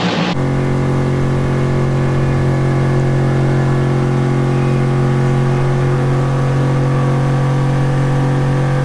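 Boat motor running with a steady, even hum at one constant pitch. A brief rush of wind and water noise cuts off abruptly at the very start.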